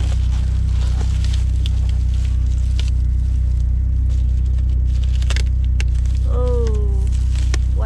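Car engine idling steadily, a constant low drone, just after a first-time start. Scattered sharp clicks sound over it, and a short falling hum comes about six seconds in.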